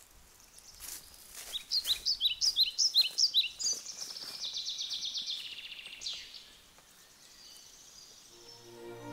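A songbird singing: a run of quick chirps that goes into a fast trill, followed by a fainter trill.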